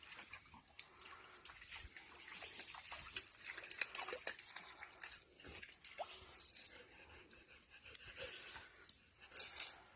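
Faint, irregular splashing and dripping of water as a dog moves about in shallow water.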